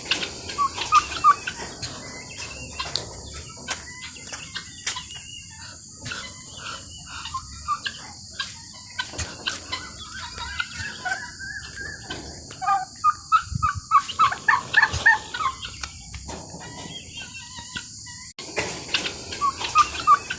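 Domestic fowl calling: short, clucking calls repeated in quick series, with the densest run of calls a little past the middle.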